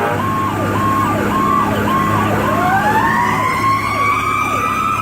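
Fire truck sirens: an electronic siren sweeps down in a fast cycle about twice a second, and a mechanical Federal Q siren joins about two seconds in, winding up with a steadily rising scream, over the steady drone of the truck.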